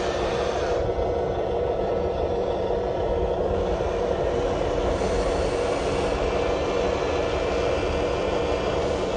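Electric motors and plastic-and-metal gearboxes of a radio-controlled construction model, a Huina excavator or dump truck, whirring steadily. The pitch shifts slightly as the motor speed changes.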